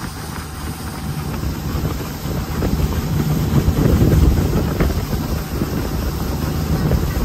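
Jet boat engine running with wind buffeting the microphone; the sound grows louder a few seconds in.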